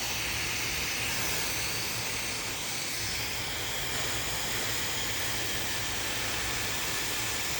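Handheld hair dryer running steadily, blowing a constant rush of air over a low motor hum.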